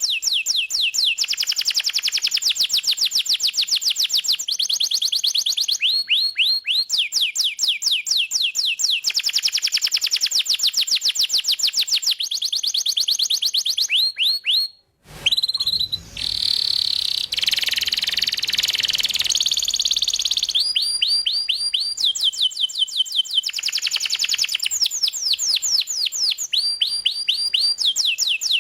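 Domestic canary singing vigorously in long rolling trills of very fast repeated notes, switching to a new trill every second or two. About halfway the song cuts out for an instant, then resumes.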